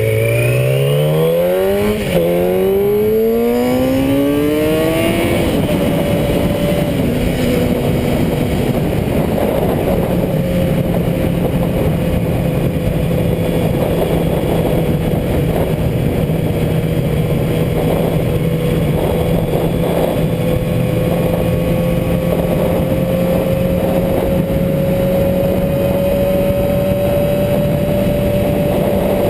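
Motorcycle engine revving up, with a brief drop in pitch about two seconds in like a gear change, climbing again until about five seconds in, then holding a steady pitch for the rest, under a constant rush of wind and road noise.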